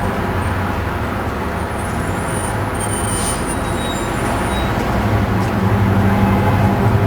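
Road traffic noise: vehicles running past with a steady rumble, and a low engine hum that grows louder near the end.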